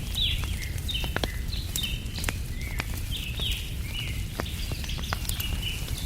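Small birds chirping in quick runs of short notes, several a second, over the sharp pops and crackle of a wood fire and a steady low rumble.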